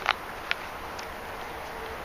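A few short crunches of a bite of fresh-picked Golden Bantam sweet corn being chewed off the cob, in the first half second, over a steady outdoor hiss.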